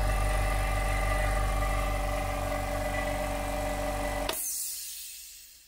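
Tagred TA375 two-cylinder oil-free piston air compressor running steadily as it pumps up its tank past 4 bar, with a fast even pulse from the pistons. About four seconds in it stops, and the sound dies away over the next second or so.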